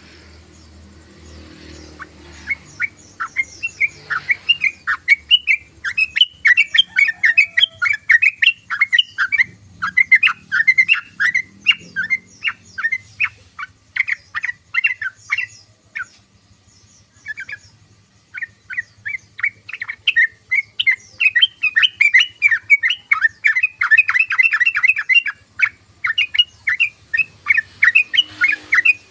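Yellow-vented bulbul (trucukan) singing a fast, bubbly chattering song: rapid runs of short notes, broken by a pause of a few seconds around the middle and a short lull near the end.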